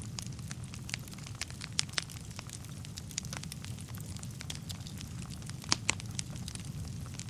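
Wood fire in a fireplace burning with a steady low rumble and irregular sharp crackles and pops from the burning logs, a few louder snaps about two seconds in and near six seconds.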